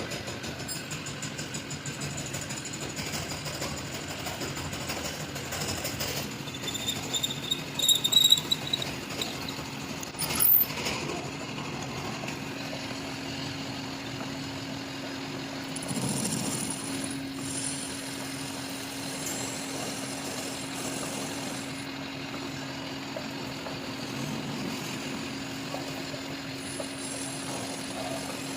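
Machinery running with a steady hum, with a brief high squeal about eight seconds in and a sharp knock about ten seconds in.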